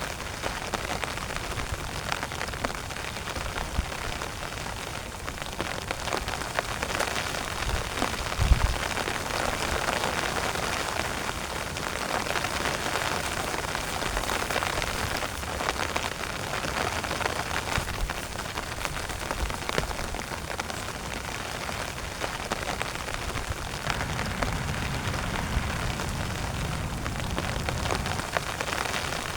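Heavy rain falling steadily on a tent, a dense rush of individual drop hits, with a single low thump about a third of the way in.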